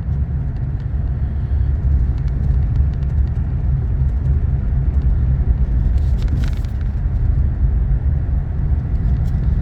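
Steady low rumble of engine and tyre noise heard from inside a car driving on a snow-covered road.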